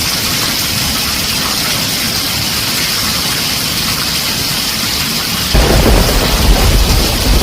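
Heavy rain drumming on a tin roof, a steady hiss. About five and a half seconds in, a loud, deep roll of thunder sets in suddenly and goes on rumbling.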